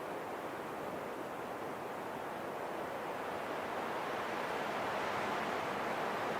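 Steady rushing wind, a smooth even noise that swells gradually louder a few seconds in.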